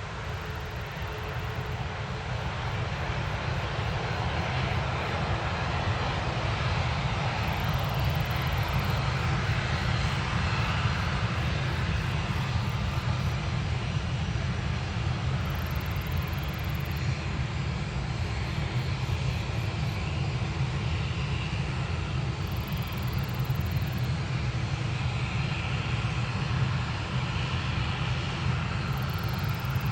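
Jet airliner engines running with a steady rushing noise and a strong low rumble, growing louder over the first few seconds and then holding.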